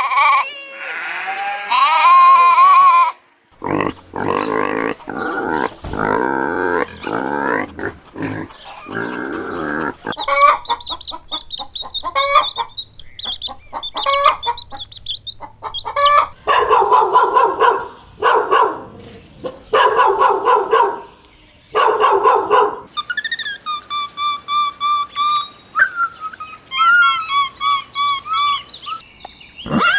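A succession of different farm animal calls, one kind after another every few seconds: a gliding call at the start, then rapid repeated calls, short grunt-like bursts, and high chirping near the end.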